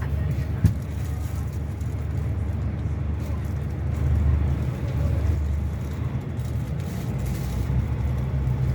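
Scania K360 coach's diesel engine running steadily, a low drone, with a single short knock just under a second in.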